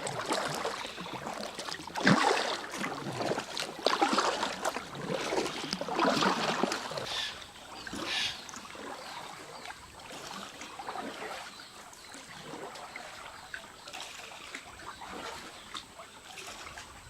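Kayak paddle strokes splashing and dripping water, about one every two seconds. After about eight seconds they give way to a softer trickle and lapping.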